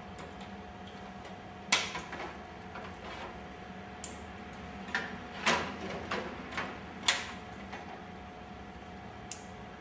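Injection-moulded plastic snap plugs being pressed home to fix a plastic side wing panel to a display stand: a handful of sharp, irregular plastic clicks and knocks, the loudest a little under two seconds in and about seven seconds in, over a steady faint hum.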